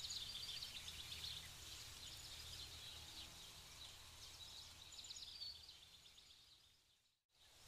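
Faint wildlife ambience with small birds chirping over a low steady background rumble, fading out near the end.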